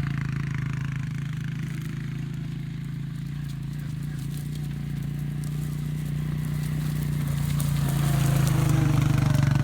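ATV (four-wheeler) engine running steadily, getting louder over the last couple of seconds.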